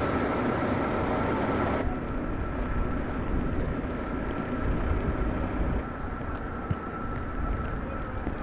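Steady rumbling outdoor noise of a snowbound street, wind and passing traffic, with a thin steady high tone underneath. The sound turns abruptly duller about two seconds in.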